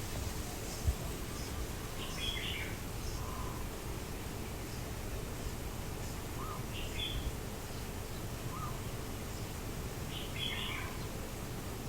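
Birds calling outdoors: short, high chirps come about every four seconds, with brief lower notes between them, over a steady background hiss.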